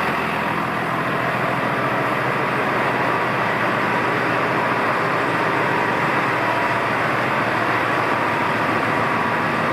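Massey Ferguson 6455 Dyna 6 tractor's diesel engine running steadily.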